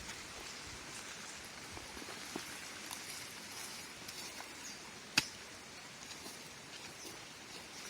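Quiet outdoor background: a steady faint hiss with scattered small ticks and one sharp click about five seconds in.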